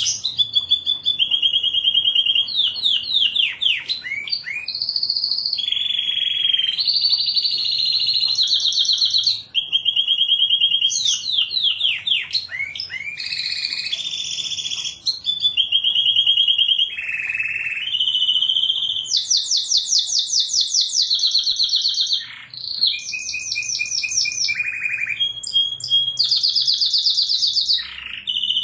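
Domestic canary singing a continuous song of rapid trills. Each trill is a quick run of one repeated note held for a second or two, then the bird switches to a new note or a sweeping slur, with no pauses.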